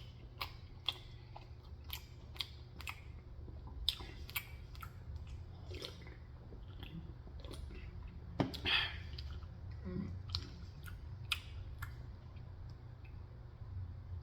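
Close-up chewing and biting sounds of someone eating a McDonald's double hamburger, with wet mouth clicks and smacks scattered throughout, the loudest about eight and a half seconds in, over a steady low hum.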